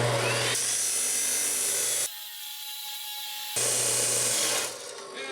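Electric saw cutting through steel bar stock, a steady harsh cutting noise over a motor hum. It stops suddenly about two seconds in and starts again about a second and a half later.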